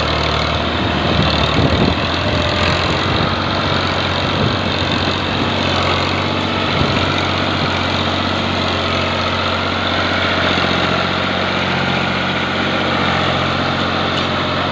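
Tractor diesel engine running steadily with a low, even drone.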